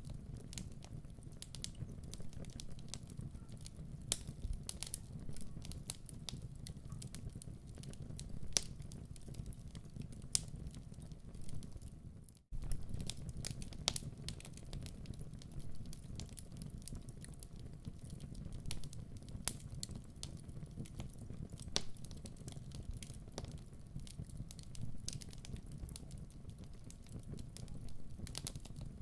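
Fire in a fireplace crackling, with irregular sharp pops over a steady low rumble. The sound drops out briefly about twelve seconds in, then resumes.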